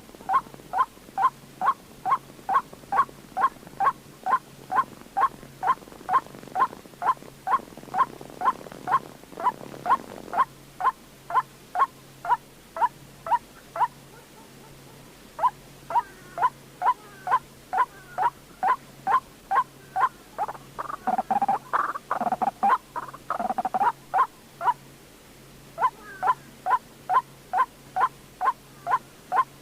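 White-breasted waterhen (chim cuốc) calling: a monotonous run of short 'kwok' notes, about two to three a second. The notes break off twice and turn louder and rougher around the middle. This is a lure recording used for trapping birds at night.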